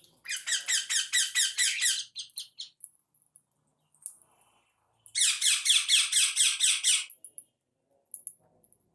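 A pet bird giving two bursts of rapid, shrill chattering calls, about eight short notes a second, each burst lasting about two seconds.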